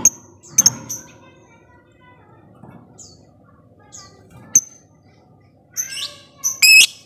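Lovebird calling: short sharp chirps scattered through the first few seconds, then a louder run of harsh chattering calls about six seconds in.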